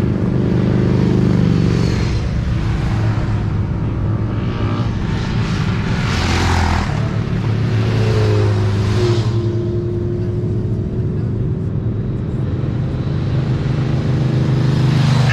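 Motorcycle engines running in a steady loud drone, with a brief louder rush of noise about six seconds in.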